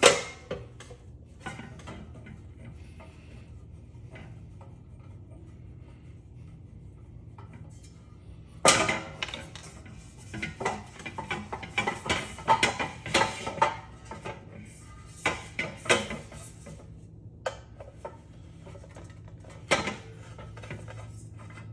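Metal parts of a ceiling fan clinking and clattering as it is taken apart by hand. A sharp knock at the start, a few quiet seconds, then a busy run of knocks and clinks, and one more knock near the end.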